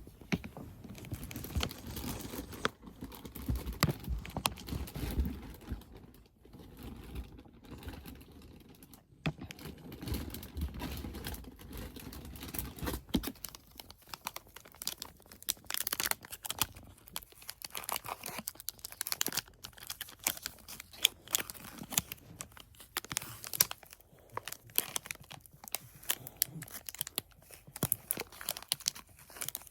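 Snack wrappers crinkling and tearing in sharp, irregular crackles as packages are handled and opened. A low rumble of handling runs under it for about the first half.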